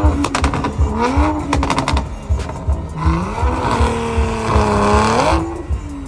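A car engine revving hard in quick rising sweeps, then held high for about two seconds in the middle, over a thudding bass beat.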